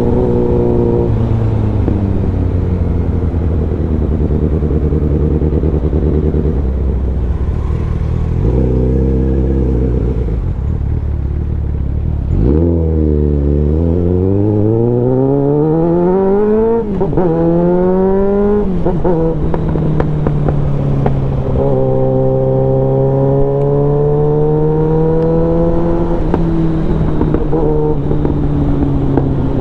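Suzuki Bandit 650N's inline-four engine through a full aftermarket exhaust, heard from the rider's seat. It runs steadily at first. About halfway through the revs drop, then climb hard twice with a quick drop between, as under acceleration through a gear change. It then settles to a steady cruise with the pitch gently rising and falling.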